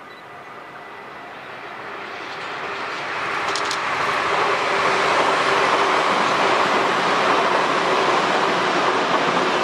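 JR Central 383 series electric limited express (Shinano) passing close by. The rumble and rush of wheels on rail grows over the first four seconds or so as it approaches, then holds steady and loud while the cars go past, with a couple of brief clicks about three and a half seconds in.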